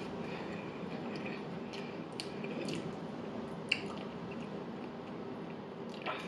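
Close-up chewing of food, with a few sharp wet mouth clicks scattered through it, the loudest a little past halfway.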